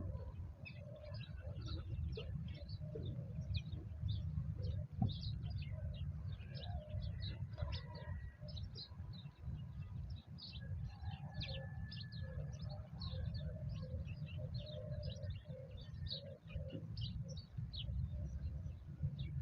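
Birds chirping rapidly and continuously, with lower drawn-out calls running beneath, over a steady low rumble.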